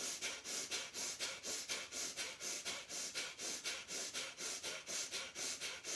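Kapal Bhati (breath of fire) pranayama: rapid, forceful exhalations through the nostrils driven by pumping the belly, each followed by a passive inhale. The sharp nasal puffs come in an even rhythm of about three a second.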